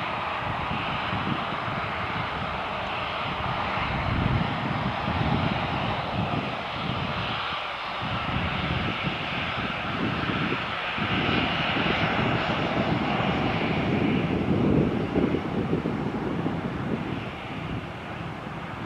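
Airliner's engines running as the aircraft moves past the airport, a steady noise that swells a little past the middle and eases off near the end.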